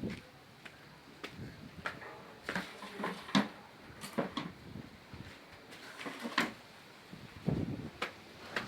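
Scattered short clicks and knocks, irregular, over a quiet background.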